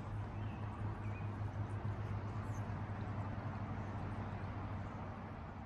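A steady low hum over an even rushing noise, with a few faint high chirps.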